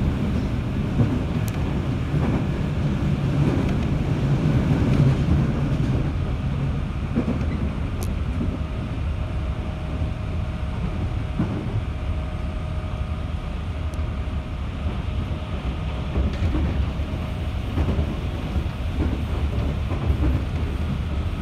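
JR 211 series electric train running, heard from inside the carriage: a steady rumble of wheels on the rails.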